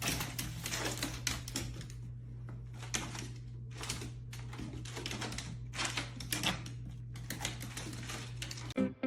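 Irregular rapid clicking and tapping, several sharp clicks a second, over a steady low hum.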